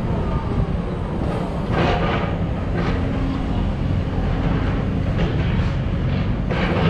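Diesel engine of heavy construction machinery running steadily under load, with several short, harsh noises of work over the top.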